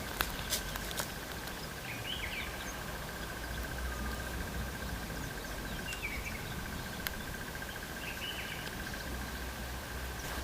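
An insect trills steadily at one high pitch with a fine, rapid pulse, like a cricket, over low outdoor background noise. A few short, faint chirps sound above it.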